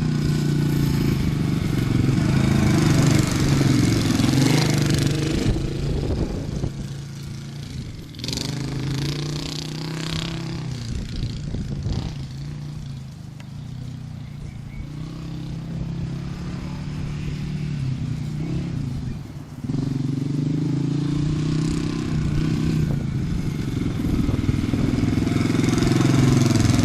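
Honda XR600R dirt bike's big single-cylinder four-stroke engine running as the bike is ridden, loud for the first few seconds, quieter through the middle, then suddenly loud again from about twenty seconds in.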